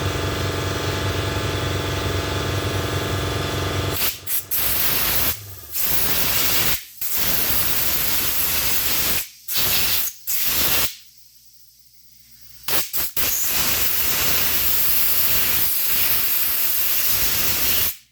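Air compressor motor running steadily for about four seconds. Then an air blow gun hisses compressed air in several long blasts with short breaks, cleaning out shotgun parts. The last blast cuts off suddenly near the end.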